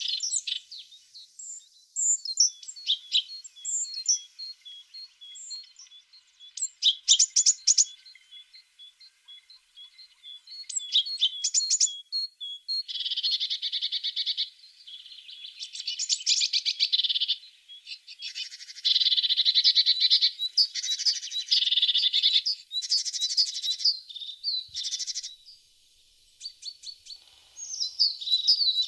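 Tits singing: high, thin chirping notes, then from about halfway in a series of fast trills repeated every second or two. A short pause comes a few seconds before the end, and then the chirping starts again.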